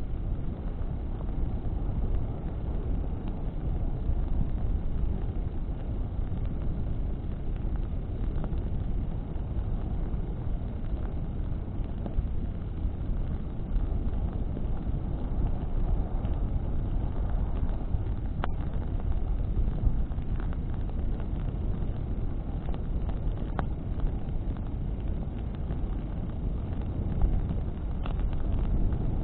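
Bonfire burning in a wind: a steady low rumble of flames and wind, with a few sharp crackles of burning branches.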